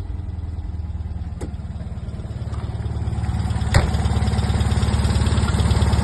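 Abarth 595 replica's air-cooled two-cylinder engine running steadily with an even pulse, growing gradually louder in the second half, sounding healthy. A sharp click cuts through about four seconds in.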